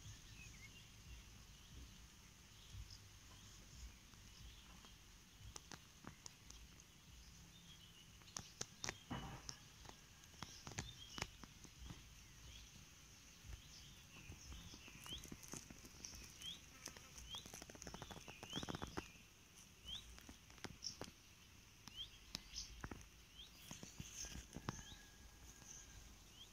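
Faint outdoor garden ambience: a small bird repeats short rising chirps, most of them in the second half, over a steady high hiss, with scattered sharp clicks and taps.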